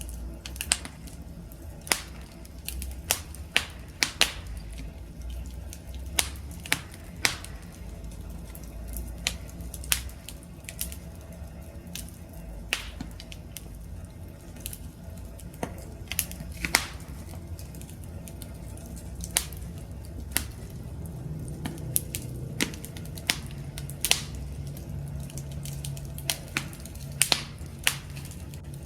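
Wood fire crackling, with sharp, irregular pops every second or so over a low, steady rumble of flames.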